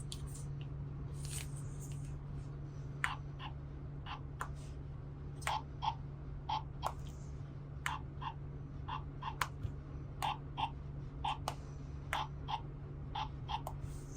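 Small plastic toy pieces being handled: irregular light clicks and taps, roughly one or two a second, over a steady low hum.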